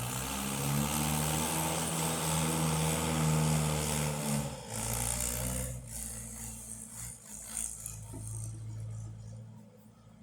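Tractor engine running with a loud, clattering rattle over it. About halfway through the rattle dies down and the engine note drops lower and quieter.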